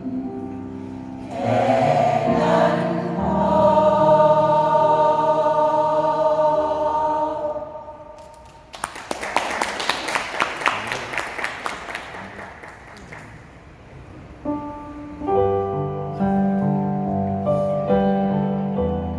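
A mixed choir sings held chords that end about eight seconds in. Several seconds of audience applause follow and die away, then music starts again with held notes near the end.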